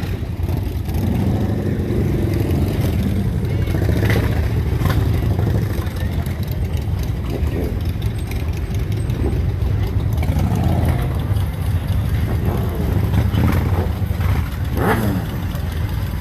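Vehicle engines running close by, a steady low rumble, with one engine revving briefly near the end.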